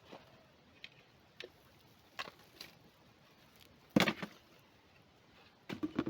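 A few scattered short knocks and clicks, the loudest about four seconds in, with a quick cluster of them near the end.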